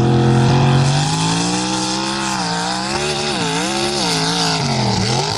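Third-gen Camaro's small-block Chevy V8 running at high revs, the revs swinging up and down several times as the throttle is worked.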